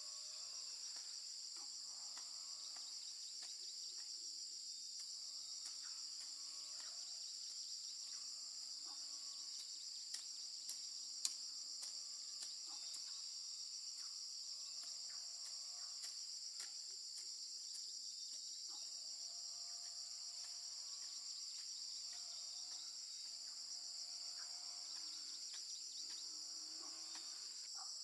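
Steady high-pitched chorus of crickets trilling without a break, with a few faint sharp clicks around the middle.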